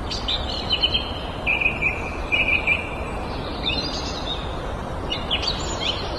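Small birds chirping and trilling in short bursts of calls over steady background noise.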